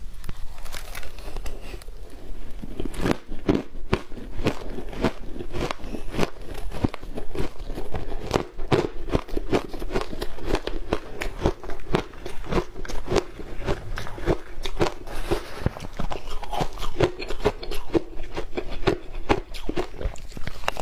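Ice coated in matcha green tea powder being bitten and chewed: rapid, continuous crunching, several crunches a second.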